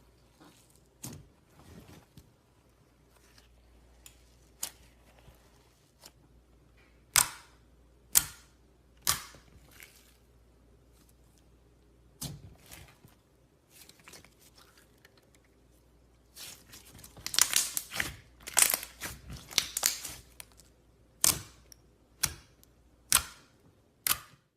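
Slime being handled, giving a string of sharp sticky pops and clicks, with a dense run of crackling pops about two-thirds of the way through.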